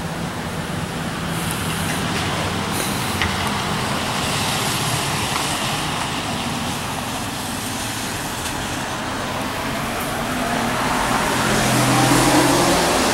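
Road traffic passing on a wet road: steady tyre hiss and engine hum, with a vehicle growing louder near the end.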